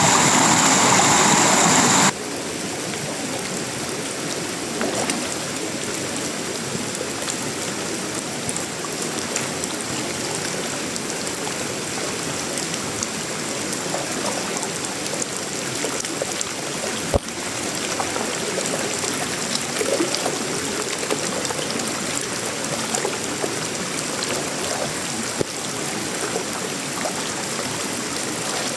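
Steady tropical rain falling on sheet metal, wood and leaves, with scattered drops ticking. It is louder and hissier for the first two seconds, then drops suddenly to a softer, even level. A single sharp knock comes about two-thirds of the way through.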